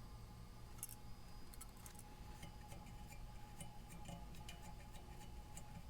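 Faint, scattered light clicks and taps of small parts and tools being handled during the exhaust fitting, over a steady low hum.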